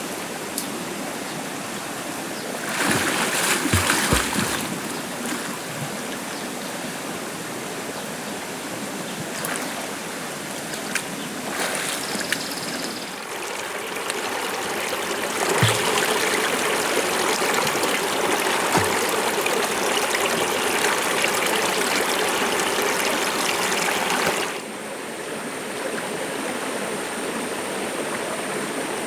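Water running steadily, like a stream, with a few knocks. It swells louder for several seconds in the second half, then drops back suddenly.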